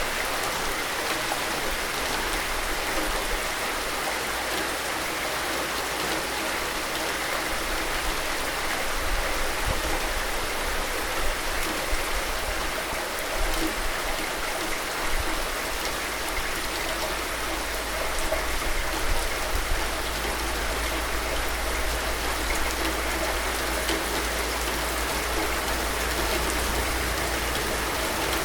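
Steady rain falling: a dense, even hiss of drops with small swells in loudness.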